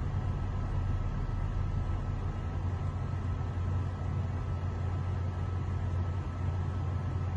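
Steady low drone of a vehicle's engine and road noise heard from inside its cabin, with no distinct impacts or crashes.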